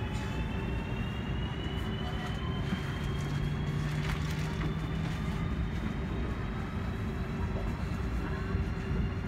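China Railway CRH high-speed electric train moving along the platform: a steady low rumble with a high electric whine that slowly rises in pitch.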